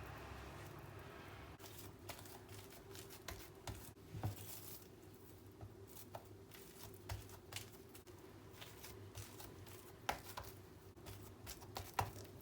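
Quiet kitchen handling sounds: scattered light taps and clicks with some rustling, over a faint steady hum. The sharpest knocks come about ten seconds in and again near the end.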